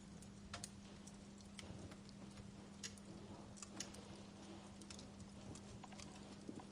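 Wood fire in a fireplace crackling softly: irregular sharp pops and snaps a few times a second, over a faint steady low hum.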